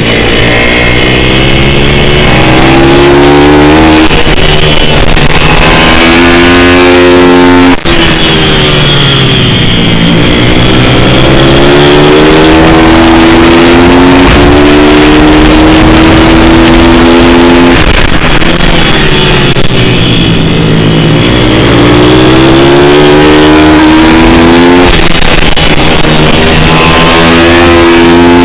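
Pit bike's single-cylinder four-stroke engine under way, revving up and easing off again and again as it accelerates and slows, with a brief cut in the sound about eight seconds in.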